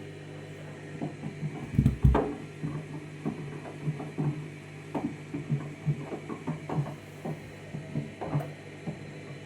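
Candy washing machine running its main wash: a steady motor hum with irregular knocks and thuds as the load tumbles in the drum, the loudest two close together about two seconds in.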